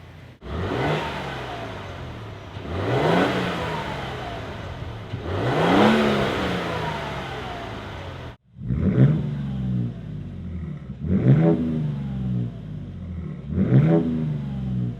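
Toyota Tundra 3.4L twin-turbo V6 revved through a Flowmaster American Thunder cat-back exhaust with a 50 HD series muffler. Three slower revs rise and fall back to idle, then, after a sudden cut about eight seconds in, three quicker, sharper blips.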